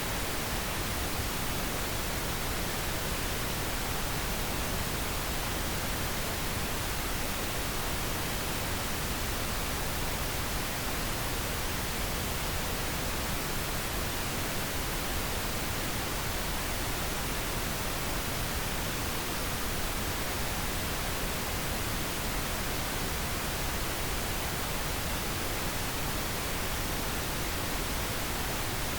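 Pink noise: a steady, even hiss with more weight in the low end than white noise, unchanging throughout.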